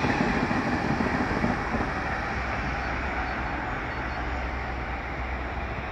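A train rolling past on the track: a dense, steady rumble of wheels and cars that slowly fades.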